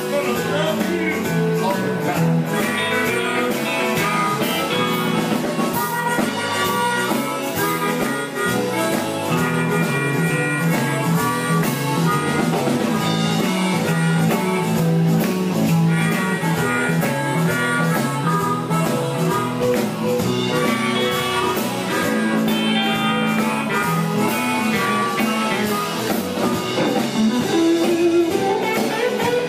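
Live blues band playing an instrumental passage: guitar over bass and drums with a steady beat.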